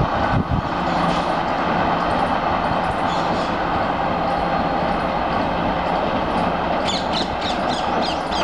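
A train running past on the rails with a steady roar of wheels and track. Near the end a quick run of short, high clicks and squeaks joins in.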